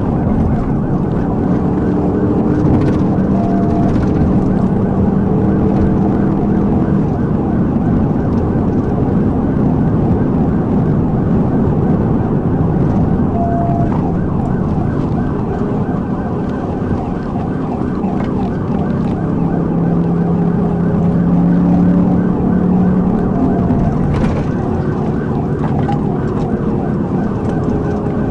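Police patrol car's siren sounding continuously, its pitch sweeping up and down, over loud engine and road noise during a high-speed pursuit.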